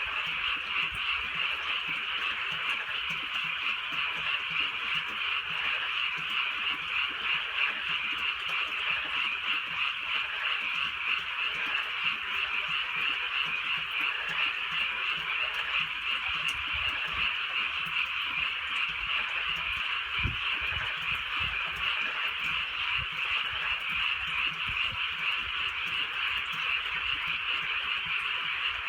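A dense chorus of many frogs calling together without a break, a steady massed croaking, with light drizzle falling.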